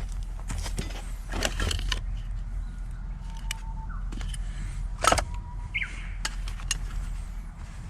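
Wood campfire crackling, with sharp snaps and pops of burning wood, several in quick succession near the start and the loudest about five seconds in, over a steady low rumble. Faint whistled notes of a Japanese bush warbler sound in between.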